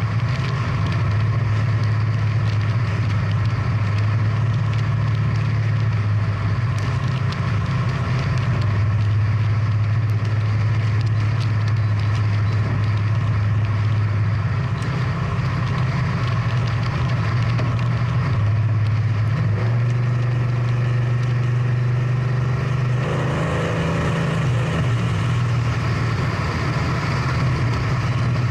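Big-block V8 of a classic muscle car running steadily at low revs, a deep continuous engine note. A second pitched engine sound joins briefly a few seconds before the end.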